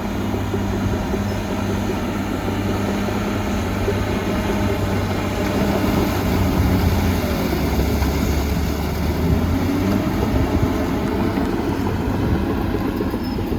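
Heavy diesel earthmoving machine's engine running steadily, a deep hum with dense mechanical noise above it.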